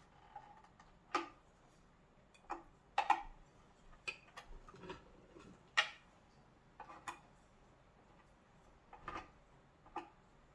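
Irregular light clicks and knocks from parts and tools being handled on a workbench, about a dozen of them, the sharpest about three seconds in and near six seconds in.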